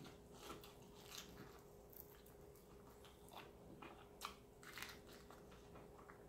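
Faint close-up chewing of crispy fried food: irregular soft crunches and mouth clicks over a faint steady hum.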